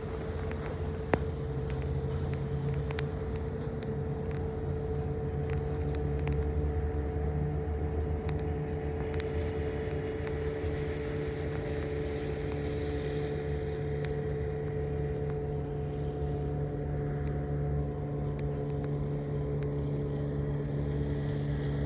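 A steady motor hum holding several even tones, with scattered sharp clicks over it.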